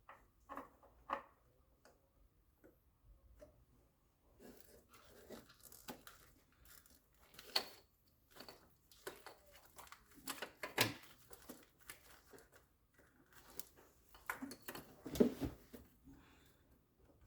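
Scattered, irregular light clicks and knocks, with a few louder taps about seven, eleven and fifteen seconds in.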